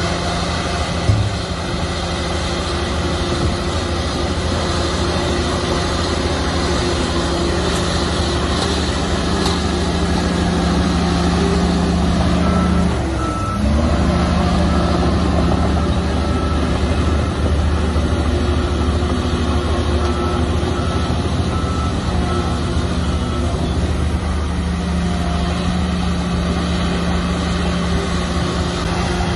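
Heavy diesel engine of earthmoving machinery running steadily under load, its pitch dipping and then recovering about halfway through. A reversing alarm beeps in short, evenly spaced beeps through the middle stretch.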